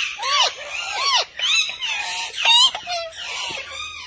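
Pet parrots calling: a run of short squawks, each rising and then falling in pitch, several in a row.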